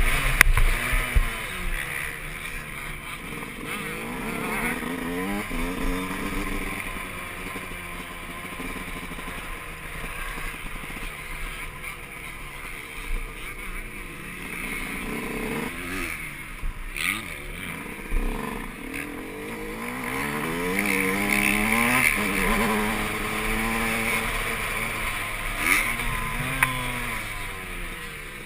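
Yamaha YZ125's two-stroke single-cylinder engine revving up and down over and over as the rider opens and closes the throttle through the gears, with wind noise over it.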